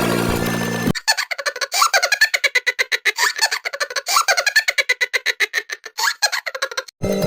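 Children's song music briefly. About a second in, it gives way to a high-pitched, rapidly pulsing cartoon giggle sound effect lasting about six seconds. The music returns near the end.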